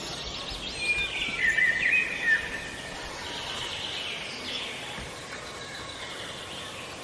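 Birds chirping over a steady outdoor hiss, with a burst of quick, warbling calls between about one and two and a half seconds in.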